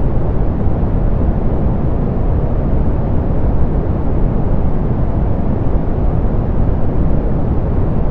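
Steady, softened pink noise: an even hiss-like rush weighted toward the low end, with the highs rolled off, unchanging throughout.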